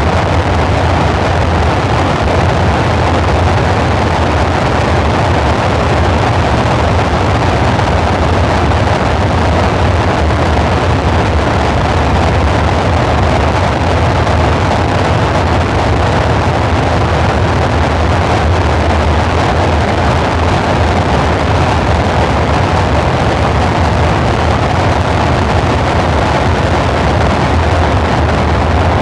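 Dark ambient synthesizer drone: a loud, steady wash of noise with a deep low hum and a band in the mid-range, unchanging throughout.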